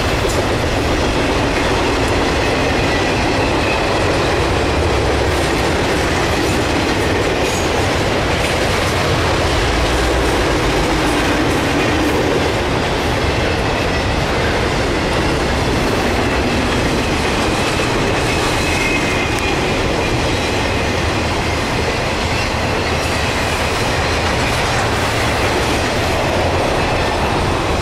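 Intermodal freight cars loaded with containers and truck trailers rolling past at speed: a steady, loud noise of steel wheels running on rail.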